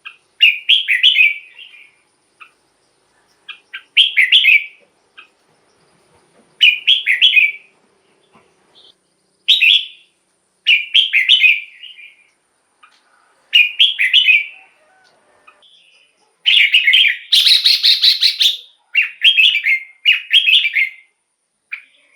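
Red-whiskered bulbul singing: short warbled phrases of about a second each, repeated every two to three seconds, then running together into a longer, louder stretch of song in the last few seconds.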